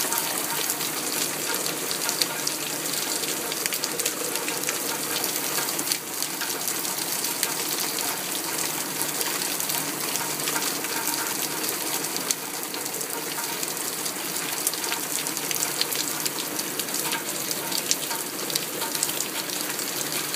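Heavy rain falling on a lake, a steady hiss dense with small droplet ticks.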